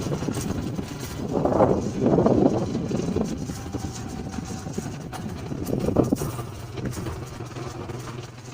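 Motorcycle engine running steadily under way, with louder rushes of noise swelling twice, about a second and a half in and around six seconds.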